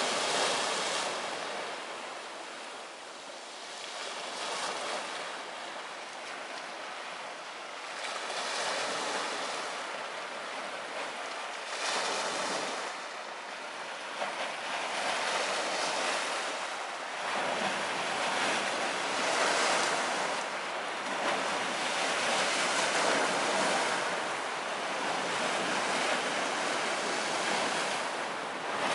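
Ocean surf washing ashore, a steady rush that swells and ebbs every few seconds.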